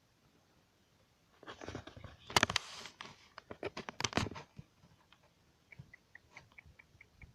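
Crunching and rustling noises with sharp clicks for about three seconds. Then, near the end, a rapid run of short, high chirps from a small bird, about five a second.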